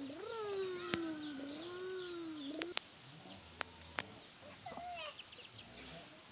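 A long, wavering animal call that rises, falls and breaks up at the end, lasting about two and a half seconds. A few sharp clicks and a short, higher call follow, with faint high chirps.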